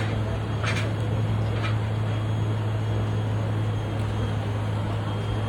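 Steady low hum of an idling engine over street noise, with two brief high hissy sounds in the first two seconds.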